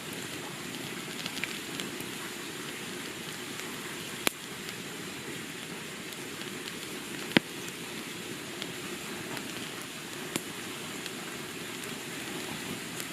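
Wood campfire burning with a steady crackle, and three sharp pops about three seconds apart.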